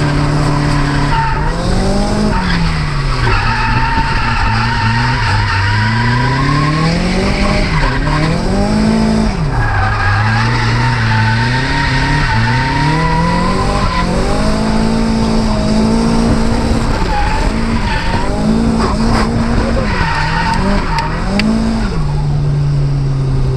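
Nissan S14's turbocharged SR20DET four-cylinder drifting, its revs rising and falling over and over as the throttle is worked, with tyres squealing through the slides.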